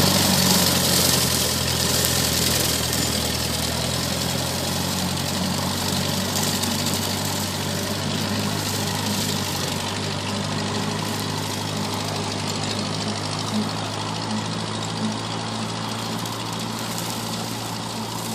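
Tractor engine running steadily, slowly getting quieter.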